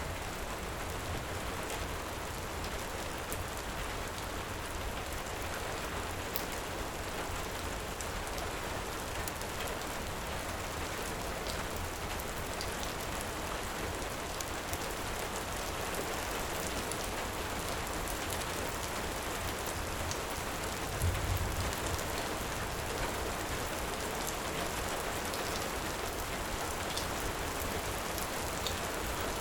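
Heavy rain falling steadily, with scattered small crackles and pops from a wood fire. About two-thirds of the way in there is a brief low thump.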